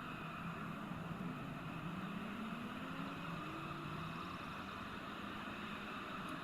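Steady hiss with a low engine hum that slowly rises and falls in pitch.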